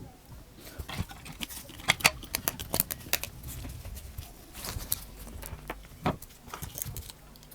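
Small sharp clicks and taps of tools and small plastic and metal phone parts being handled and fitted during a smartphone reassembly, irregular, the loudest pair about two seconds in.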